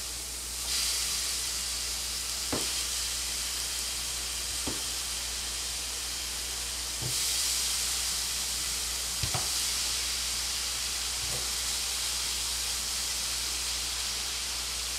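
Thin slices of Spam sizzling on a preheated electric griddle. The hiss jumps louder about a second in and again about seven seconds in as more slices go down, with a soft tap about every two seconds as each slice is laid on.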